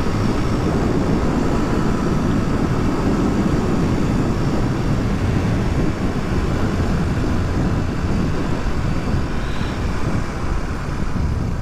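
Suzuki DR250S single-cylinder engine running at a steady road speed, with wind rushing over the microphone.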